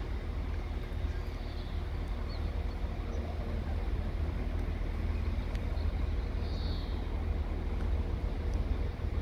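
Diesel train at a station platform, its engine running as a steady low rumble with a faint constant hum.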